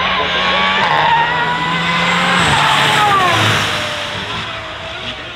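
Aston Martin Valkyrie's 6.5-litre Cosworth V12 revving hard under acceleration, the pitch climbing, then dropping and fading as the car passes and moves away.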